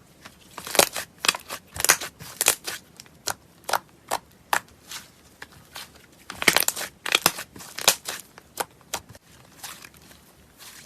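Slime being worked, giving irregular sharp crackles and pops that come thickest about a second in and again around six to seven seconds in.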